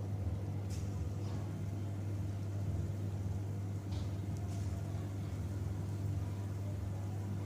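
Steady low hum with a faint even hiss behind it and a few light clicks.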